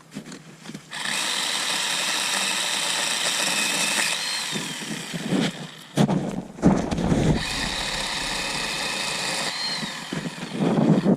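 An electric power tool runs at a steady high whine for about three seconds and winds down with a falling pitch, then runs again for about two seconds and winds down the same way. Between and after the runs come rough crackling and heavy thumps, the loudest of them about six to seven seconds in.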